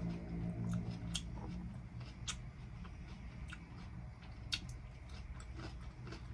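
Close-miked chewing of crunchy cucumber salad: sharp, crisp crunches about once a second. A low hum sits under the first second and a half.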